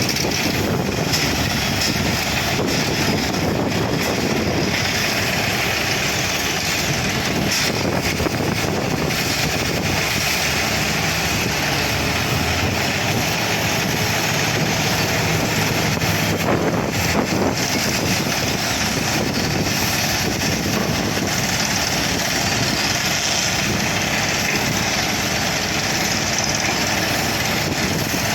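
Heavy diesel drilling equipment, an Atlas Copco XAV 216 portable air compressor and an Epiroc D35 drill rig, running with a loud, steady mechanical noise.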